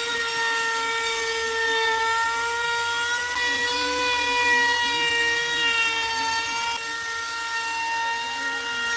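Electric power tool motor running steadily at constant speed, a steady whine.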